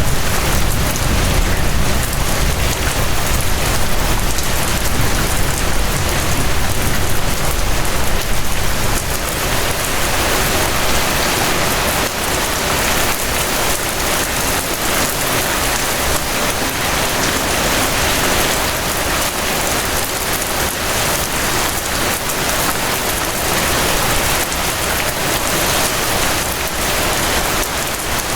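Steady gentle rain falling as a dense, even hiss, with a low rumble underneath that eases about twelve seconds in.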